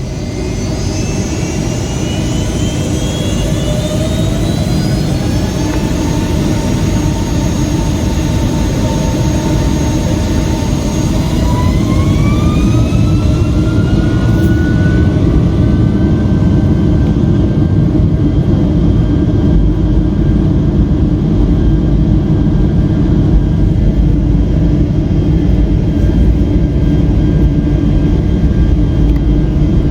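Rolls-Royce RB211 turbofans of a Boeing 757-200 spooling up to takeoff thrust, heard from inside the cabin. Several whines climb in pitch over the first fifteen seconds or so while the roar grows louder, then both hold steady at full power.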